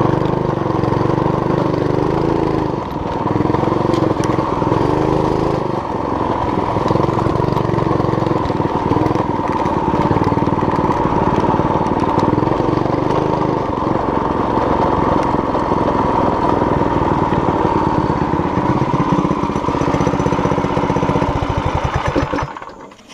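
Small engine of a homemade mini bike running as it is ridden, its pitch rising and falling as it revs up and down. The sound cuts off suddenly near the end.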